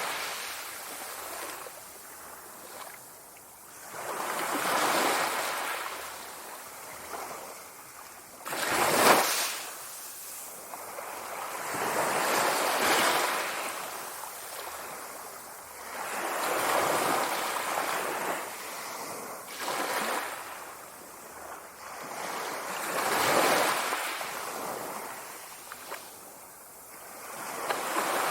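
Sea waves surging and washing in, one swell every three to four seconds, with one sharper, louder crash about nine seconds in.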